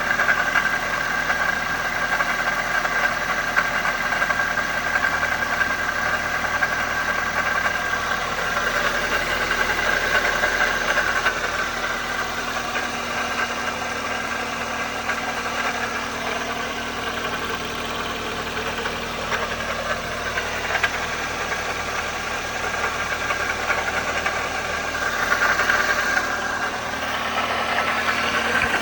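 Toyota 1ZZ-FE 1.8-litre four-cylinder engine running steadily at operating temperature, with the rattle its owner is trying to track down.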